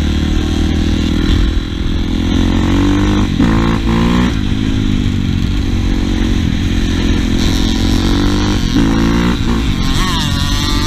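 Dirt bike engine running under throttle, its pitch rising and falling as it revs, with sharp drops in pitch about a third of the way in and again near the end.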